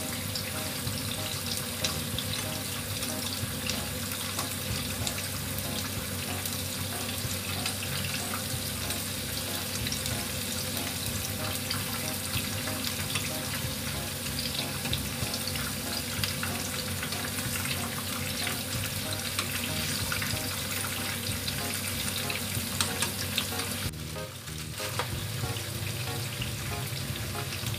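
Tofu pieces deep-frying in hot oil in a frying pan over medium-high heat: a steady sizzle with dense crackling.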